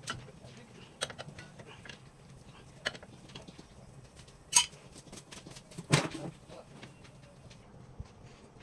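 Scattered metal clinks and knocks of hand tools and parts being handled, with two louder clanks a little past the middle, about a second and a half apart.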